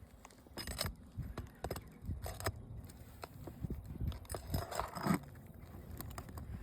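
Scattered clicks, taps and short scrapes of hand tool work on an asphalt shingle roof.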